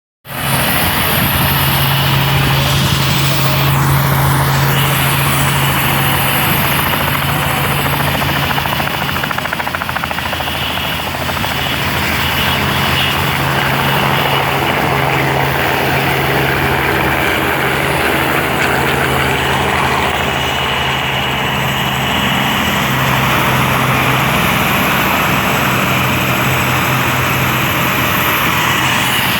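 Helicopter turbine and rotor running loud and steady, with a constant low hum under a dense rushing noise.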